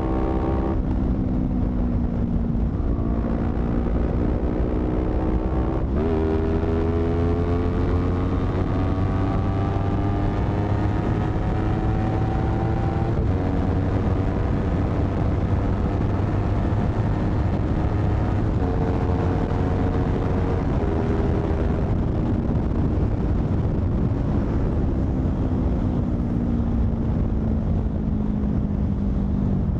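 Honda CBR250RR twin-cylinder engine running through a modified aftermarket exhaust while riding. The pitch climbs steadily through the gears with a few sudden changes at gear shifts, then falls gradually over the last several seconds as the bike slows.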